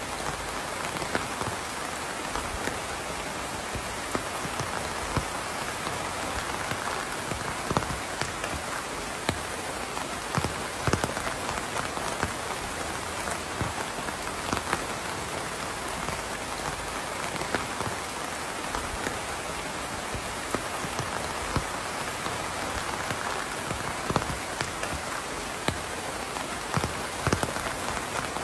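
Steady rain falling and pattering on a surface, with individual louder drops ticking sharply now and then.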